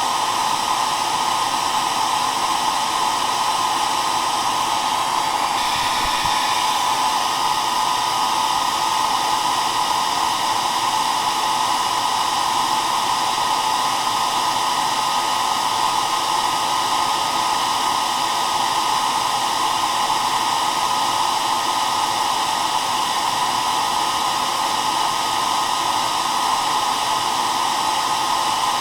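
Hair dryer running steadily: a continuous, even rushing noise with a strong band in the middle of the range.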